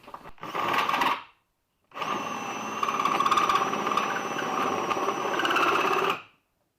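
Cordless drill spinning a 1 1/8-inch hole saw that cuts into a starter end cover: a short run of about a second, a brief pause, then about four seconds of steady cutting with a high whine before it stops.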